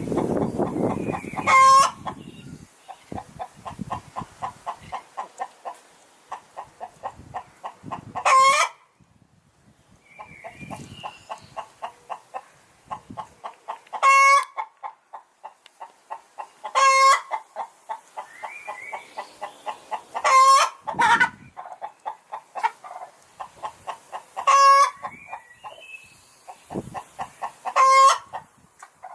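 Hen cackling her egg song: runs of quick clucks, several a second, each broken by a loud, short squawk, about eight squawks in all.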